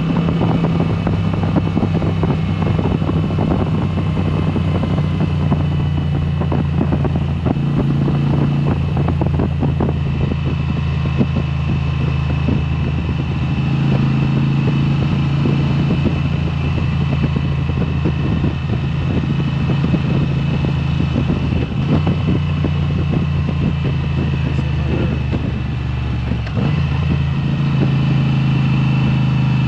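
2022 Moto Guzzi V7 Special's 853 cc air-cooled V-twin running through a Mistral exhaust with its dB killers removed, uncorked and loud. The engine note steps up and down several times as the revs change.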